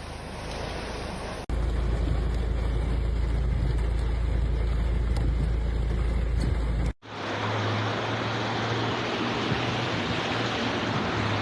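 Steady rushing noise of floodwater in a street, in three abruptly cut clips: the middle one carries a heavy deep rumble, and the last a low steady hum under the rush.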